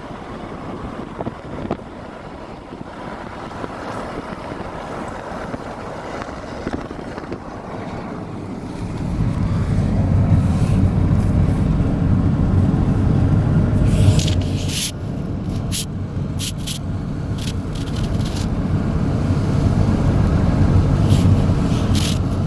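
Car driving in very high winds: road rumble and wind rushing and buffeting the microphone, swelling louder and heavier about nine seconds in, with scattered sharp crackles in the second half.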